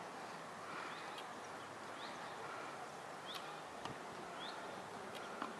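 A bird chirping over faint outdoor background noise: short rising notes repeated roughly once a second, with a couple of soft clicks.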